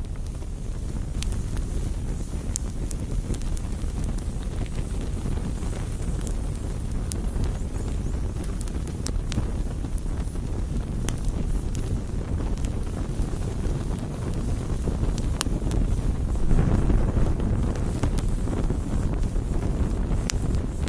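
Campfire crackling: scattered sharp pops and snaps over a steady low rush, which swells for a couple of seconds about three-quarters of the way through.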